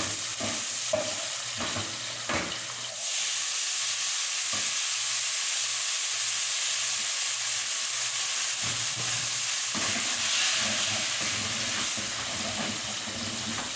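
Food frying in hot fat in a pan on the stove: a steady sizzle that gets louder about three seconds in, with a utensil knocking and stirring in the pan now and then.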